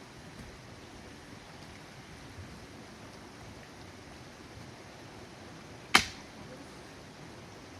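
Wood fire in a fire pit crackling faintly, with one sharp, loud pop about six seconds in.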